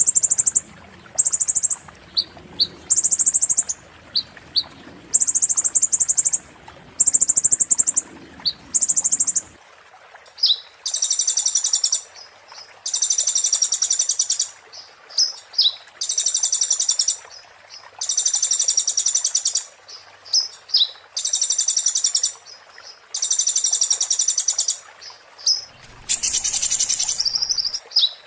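Konin songbird singing in the 'muntah beling' style: repeated bursts of rapid, very high, buzzy chattering. The bursts are short and about a second apart at first, then from about ten seconds in they grow longer, roughly a second each, spaced about two seconds apart.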